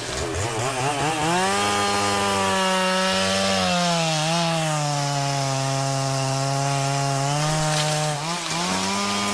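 Chainsaw running at high revs and cutting wood: its pitch climbs as it is revved, then sags and wavers as the chain bites in under load, and rises again near the end.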